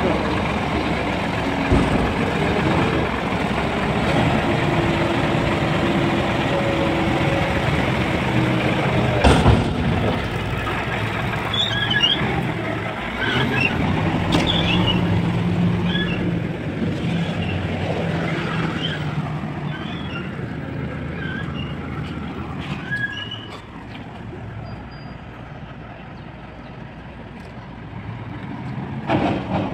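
Garbage truck's engine and hydraulic loading gear running, a steady hum with held droning tones. There is a loud bang about nine seconds in, scattered short high chirps in the middle, and the hum grows quieter in the last third.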